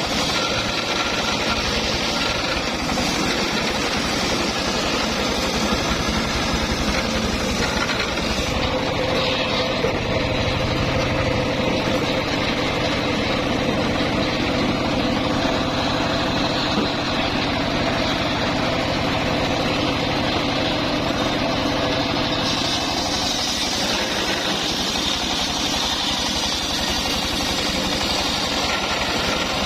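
Engine-driven homemade circular saw rig running steadily, with a change in its tone from about eight seconds in to about twenty-two seconds in.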